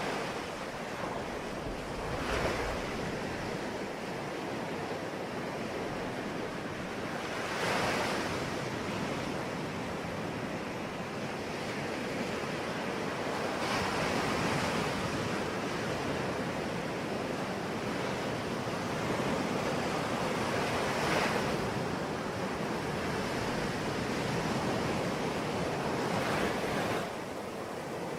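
Sea waves washing onto a shore, a steady hiss of surf that swells as a wave breaks about every five to seven seconds, five times.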